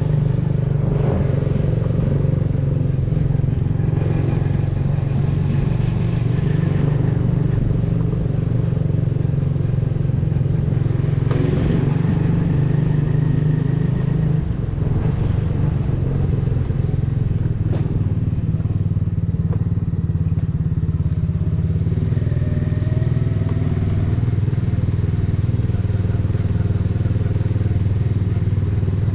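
Exhaust of a custom 125cc motorcycle running while riding, a low, even engine note held at a fairly steady speed.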